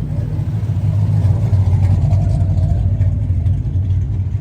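A car engine running loud and close with a low, steady note that gets louder about a second in.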